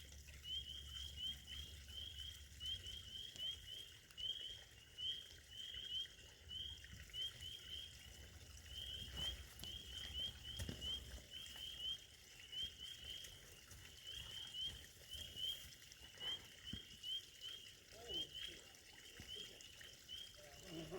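Steady, rapid chirping from a small animal: short high chirps at about three a second, kept up without a break.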